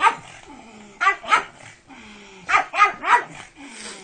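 Pug barking in short bursts: a single bark at the start, a pair about a second in, then three quick barks past the middle.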